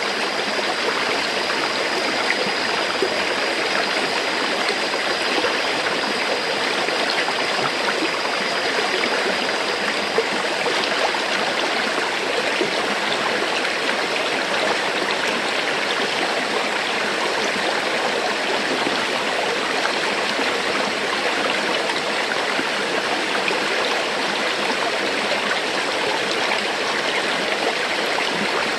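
River water flowing steadily over stones, an even rushing and babbling that doesn't change.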